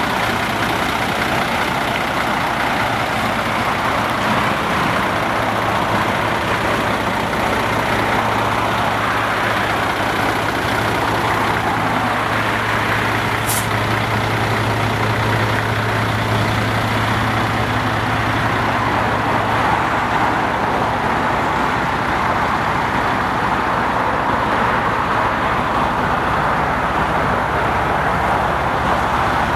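Freightliner M2 hauler truck's diesel engine running steadily, with a constant hiss over it. A low steady hum joins in about five seconds in and fades out around twenty seconds.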